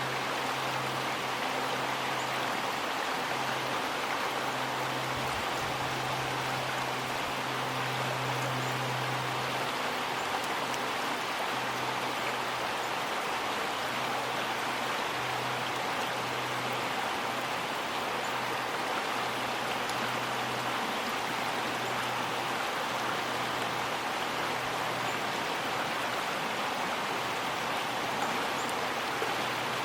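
River water flowing steadily, an even rushing wash with no breaks. A faint low hum comes and goes underneath.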